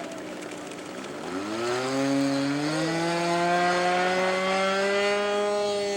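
Small engine of a radio-controlled model floatplane running at low throttle, then opened up about a second in: the pitch climbs quickly and holds high and steady.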